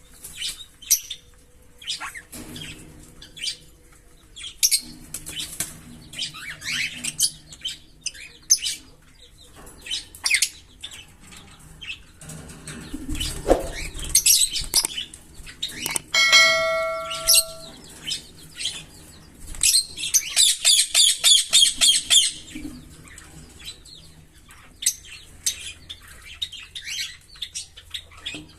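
A pair of green Fischer's lovebirds chirping with many short, sharp calls, breaking into a fast run of rapid repeated chirps about twenty seconds in. A steady ringing tone sounds briefly a little past the middle.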